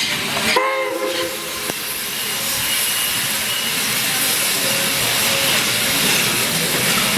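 Steam locomotive hissing steam steadily, with a short pitched toot under a second in.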